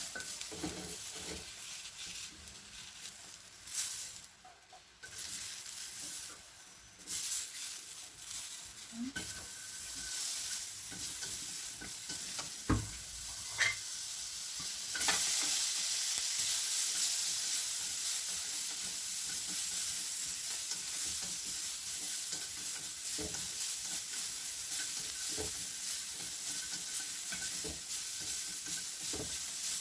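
Green beans stir-frying in butter in a hot pan, sizzling while a spatula stirs them. There are a few knocks of the utensil against the pan, and the sizzle becomes much louder about halfway through.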